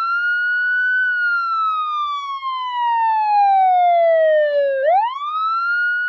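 Police siren wailing: a single pitch that glides slowly down over about four seconds, then sweeps quickly back up and holds high.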